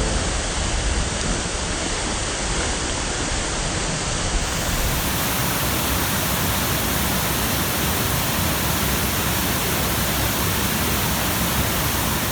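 Waterfall rushing steadily over rocks, a constant roar of water. About four seconds in it turns brighter and more hissy.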